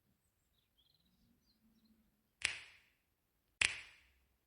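Two sharp knocks a little over a second apart, each ringing out briefly, after a few faint high chirps.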